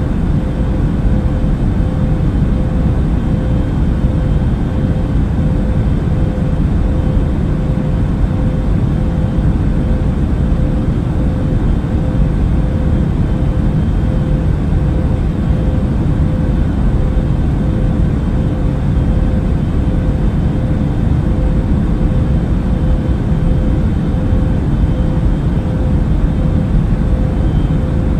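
Airplane cabin noise in flight: a constant low rumble of engines and rushing air, with a faint steady hum above it.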